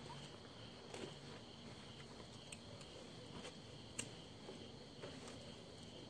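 Faint, steady chirring of crickets, with a few soft clicks, the sharpest about four seconds in.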